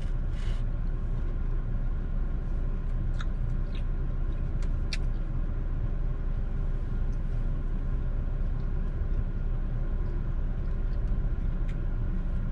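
Steady low rumble of a car's engine idling, heard from inside the cabin, with a few faint clicks in the first few seconds.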